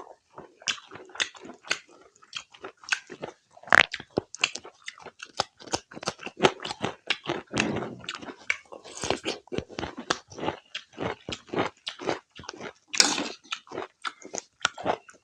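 Close-up eating sounds: a person chewing a mouthful of pork curry and rice, with many short, irregular wet clicks and smacks, several a second, and a few louder bites.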